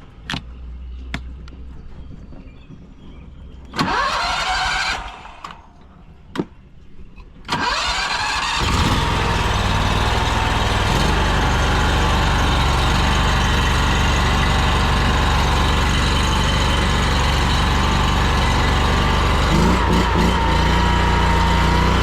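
A few clicks, then an engine cranking and starting about seven or eight seconds in, after which it runs steadily.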